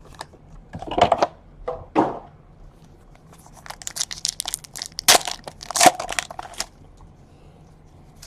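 Wrapper of a baseball card pack being torn open and crumpled, a crinkly crackling that runs for about three seconds in the middle, after a couple of short handling sounds.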